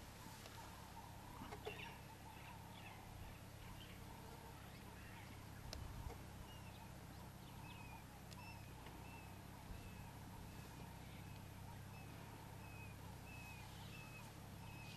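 Faint bird calls: short chirps repeated about every half second, with a few scattered higher calls in the first seconds, over a low steady hum.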